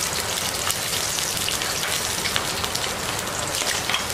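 Sliced shallots and garlic sizzling in hot oil in a wok: a steady hiss dotted with many small crackling pops.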